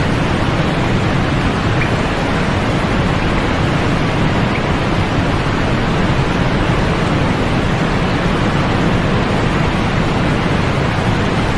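Steady white-noise sleep sound: an even, unchanging hiss with a deep, muffled tone, its highs rolled off.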